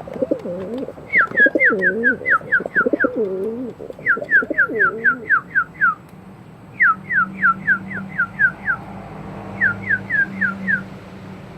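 Cuban buchon pouter pigeons cooing, low and wavering, through the first five seconds. Over it a bird sings runs of quick, sharply falling whistled notes, about four a second, in four bursts. A low steady hum comes in about halfway through.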